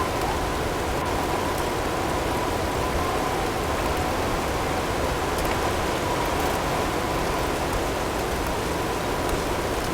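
Blizzard wind as a steady, even hiss, with a faint high tone held throughout.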